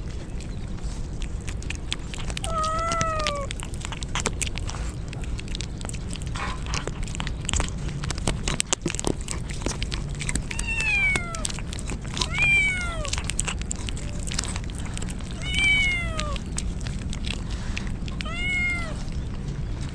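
A cat meowing five times, each call falling in pitch, over a steady background hiss scattered with sharp clicks.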